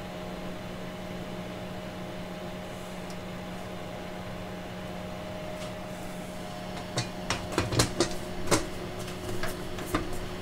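Steady electrical hum of running bench test equipment. From about seven seconds in come a series of small sharp clicks and knocks from handling at the bench.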